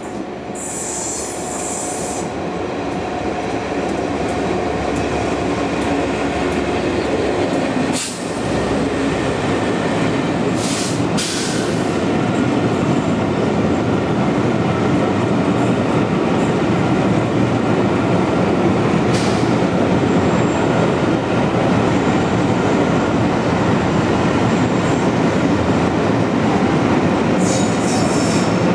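A diesel-hauled train with a dragged steam locomotive running past: a rumble of wheels on the rails that grows louder over the first few seconds, then stays steady and loud, with a few sharp clicks.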